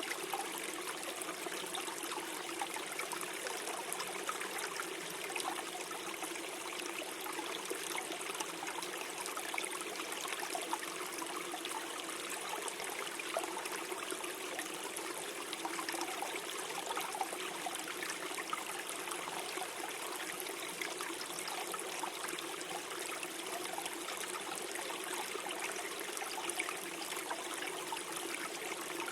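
Small forest stream flowing and gurgling over stones, a steady, even wash of water with fine splashing detail.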